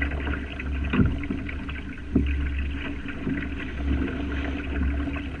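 Water splashing and lapping against a sailing dinghy's hull under a low, pulsing rumble of wind. It is scattered with small clicks and knocks, with sharper knocks about a second in and just after two seconds.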